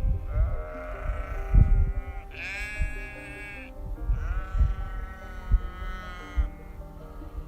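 Three long animal calls with a wavering pitch, the second one the highest, over background music with low thumping beats.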